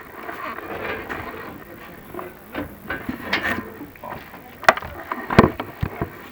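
Chimney inspection camera equipment being worked up the flue: irregular scraping and rattling with sharp knocks, the loudest a little under five and about five and a half seconds in.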